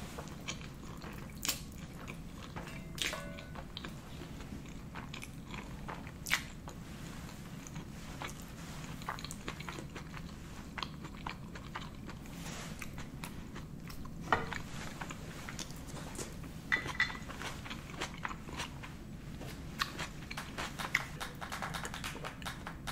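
Close-miked chewing and wet mouth sounds of someone eating spaghetti carbonara, with scattered short clicks and smacks.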